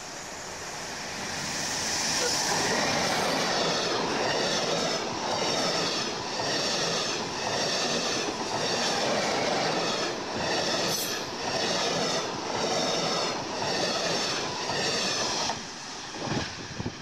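A double-deck passenger train passes close by. Its wheel and rail noise swells over the first two seconds, then holds as a loud, steady rumble with a rhythmic clatter about once a second. The sound cuts off suddenly near the end.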